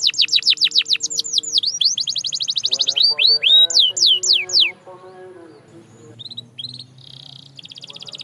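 Canary singing: a fast trill of rapid down-sweeping notes slows into a few longer descending whistles, then breaks off a little before halfway. After a quieter stretch with a few short notes and one held note, another fast trill starts near the end.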